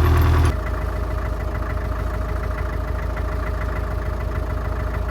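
Vintage tractor diesel engine running steadily. About half a second in, the sound drops in level and changes to a lighter, evenly pulsing engine note.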